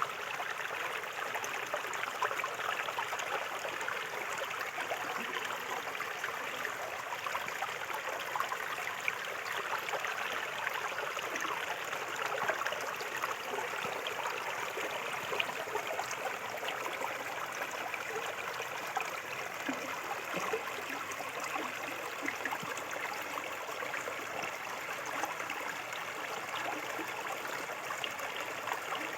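Small river flowing steadily over stones, an even rushing and trickling with small splashes throughout.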